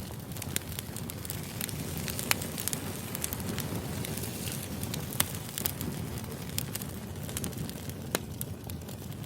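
Wood fire crackling: irregular sharp pops and snaps of burning firewood over a low steady rumble.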